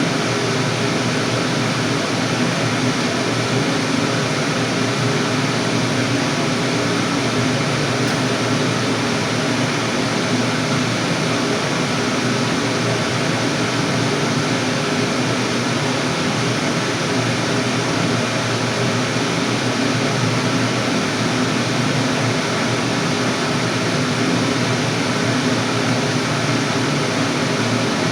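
Steam boiler's burner firing steadily, a constant loud rush of flame and blower with a low hum, with no change in firing rate.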